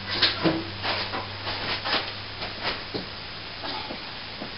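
Hand tool scraping and rasping on plaster or plasterboard in a quick run of short, irregular strokes, fading out near the end, over a steady low hum.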